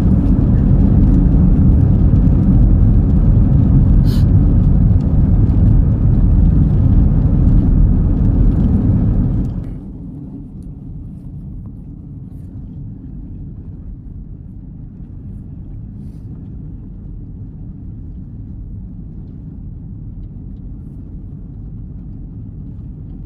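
Car driving on a snowy road, heard from inside the cabin as a steady low rumble of road and engine noise. There is a single click about four seconds in. Almost ten seconds in, the rumble drops suddenly to a much quieter level and stays steady.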